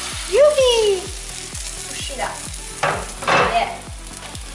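Zucchini frittata sizzling in an oiled frying pan, just slid back in to cook its second side. About half a second in there is a short pitched vocal sound falling in pitch, and around three seconds in a light knock and rattle.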